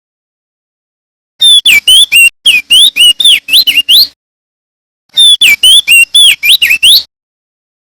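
Male crested white-eye (opior jambul) singing: two loud phrases of quick whistled notes, each sweeping up and down in pitch, separated by a pause of about a second. The first phrase starts about a second and a half in.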